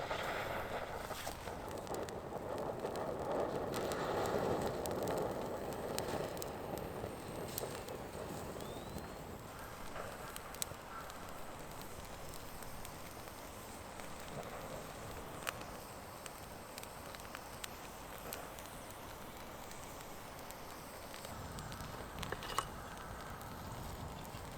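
Small wood fire crackling: a low steady hiss with occasional single sharp pops a few seconds apart, over a denser rustling in the first few seconds.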